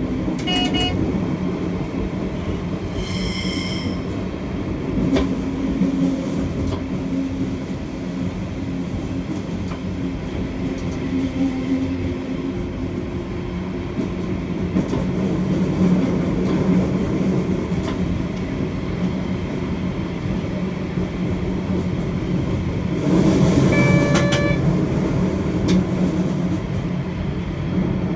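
Train running along the track, heard from the driver's cab: a steady low rumble of wheels on rails with a constant hum. It grows louder about 23 seconds in, where brief high tones also sound; an earlier short high tone comes about three seconds in.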